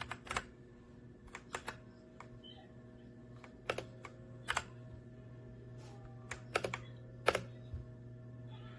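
Redragon K617 60% mechanical keyboard keys being pressed in scattered single strokes and short clusters of clicks, over a steady low hum.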